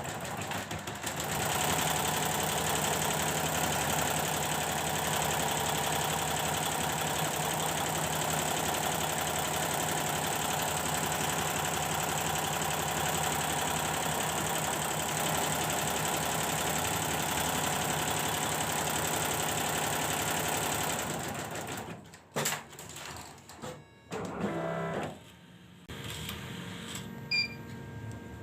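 Computerised embroidery machine stitching at speed with a steady, fast rattle, then stopping about 21 seconds in, followed by a few clunks and clicks. It is running normally on a test run after its drive unit's power supply was repaired.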